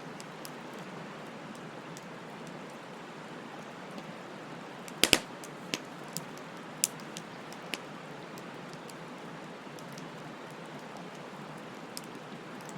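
Wood bonfire burning with a steady hiss, broken by a quick run of sharp crackles and pops about five seconds in, the loudest two close together, and a lone pop near the end.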